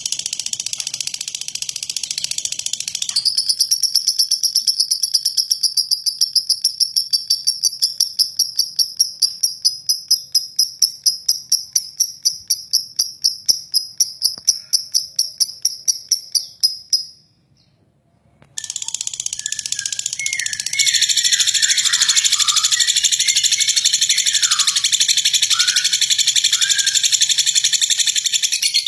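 Lovebird singing its long, rough 'ngeklek' trill: a fast, even rattle of about four pulses a second that stops suddenly about two-thirds of the way in. After a short break it resumes as dense high chattering with short falling chirps.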